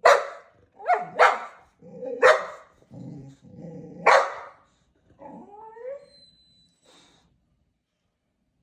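A dog barking, five sharp barks in the first four seconds or so, with low growly sounds between them, then a shorter bending whine-like call about five seconds in.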